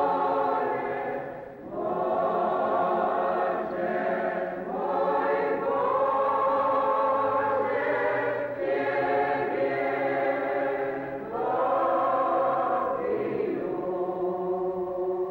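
Choir singing a hymn in long held phrases, with brief pauses between lines.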